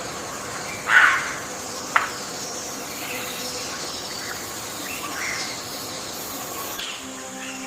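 Forest ambience: a steady hiss of insects with birds calling, one loud call about a second in and a short sharp call a second later, with fainter calls further on.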